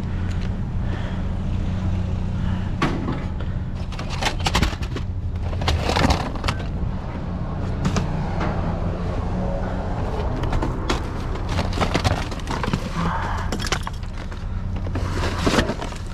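Junk being rummaged through in a metal dumpster: scattered knocks, clatters and scrapes of objects being shifted and dropped, denser from about four to seven seconds in and again near the end, over a steady low hum.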